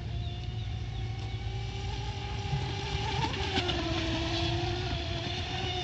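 Small brushless electric motor of a radio-controlled boat running with a steady buzzing whine, its pitch wavering and dipping briefly about halfway through as the throttle changes.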